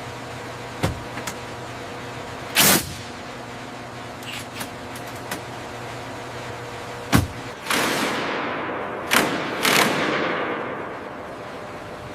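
Steady low machinery hum under metal assembly work: a few sharp knocks and clanks, then three hissing bursts of air in the second half, the last one the longest and slowly fading out.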